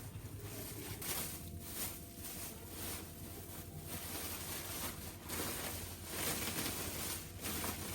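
Rustling outdoor noise that swells and dips every second or so, over a steady low rumble.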